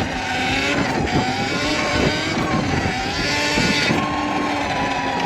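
Sur-Ron electric dirt bike being ridden: its motor and drivetrain whine, rising and falling in pitch with speed, over a steady rush of noise.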